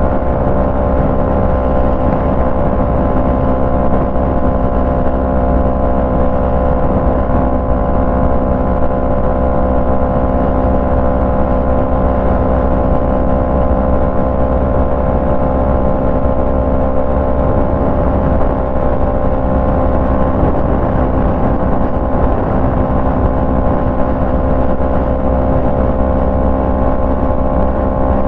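Yamaha MT-03's 321 cc parallel-twin engine through a full Jeskap aftermarket exhaust, running at a nearly constant engine speed while cruising. The exhaust note holds a steady pitch throughout, with no gear changes or revving.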